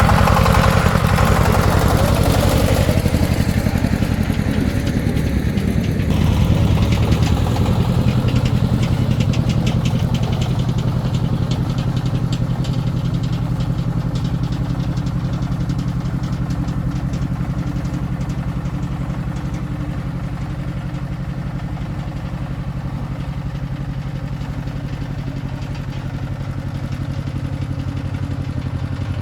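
Single-cylinder diesel engine of a restored công nông farm vehicle running steadily. It is louder, with a rush of added noise, for the first three seconds or so, then settles to an even run.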